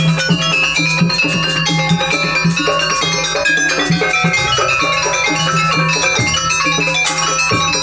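Jaranan music played continuously, with pitched metal percussion in the gamelan style ringing over drums and a steady low tone.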